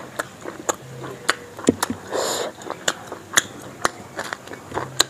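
Close-miked eating: chewing with irregular sharp mouth clicks and smacks, and a short, noisier crunch about two seconds in.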